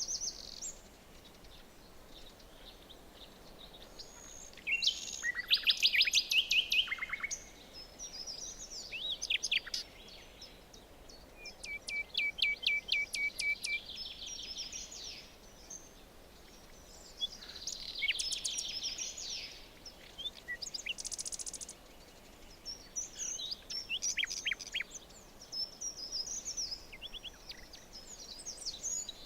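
Several songbirds singing in a forest, with phrases of rapid trills and chirps coming every few seconds over a faint steady hiss.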